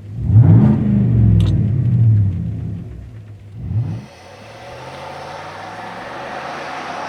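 Exhaust of a GM Silverado/Sierra 1500's 5.3L V8 revving: one rev rising and falling over about two seconds, then a short blip. About four seconds in, the sound changes to the engine running steadily under a wash of road and wind noise.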